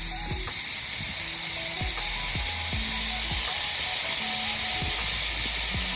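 Food frying in a pan over a campfire: a steady sizzle of potatoes, mushrooms and onions cooking in butter, with background music underneath.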